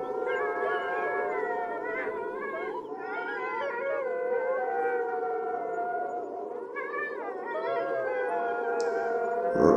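Several long, eerie howls overlapping one another, each wavering up and down in pitch: a layered horror howling sound effect.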